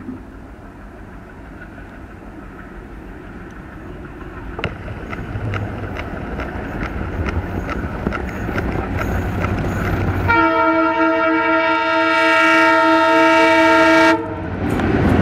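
An Indian Railways locomotive-hauled train approaching: rumble building with a regular rhythm of wheel clicks over rail joints. About ten seconds in, the locomotive horn sounds one long chord-like blast lasting nearly four seconds and cutting off sharply, and the train's running noise continues after it.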